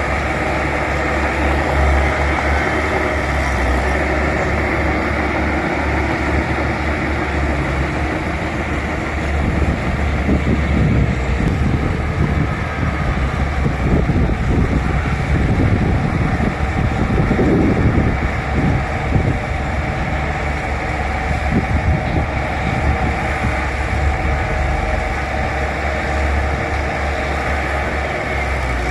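Bulldozer's diesel engine running steadily, with a rougher, louder rumbling stretch through the middle.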